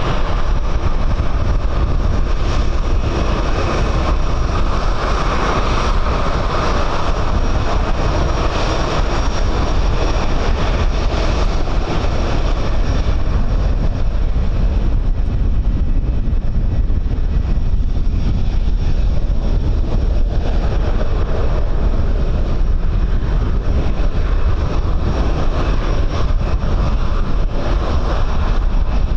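Jet aircraft engine noise mixed with heavy wind buffeting on the microphone: a steady rush that is strongest in the first half and eases off around the middle, over a constant low rumble.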